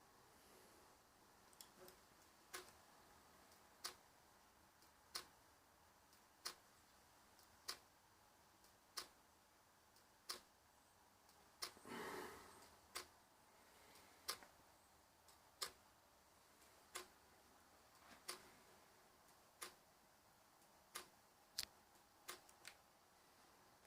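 Quiet turntable playback through a mixer's phono input: a low steady background with a sharp click about every 1.3 seconds, like a mark on the record passing under the stylus once per turn. About halfway through, a short, softer rush of noise rises and fades.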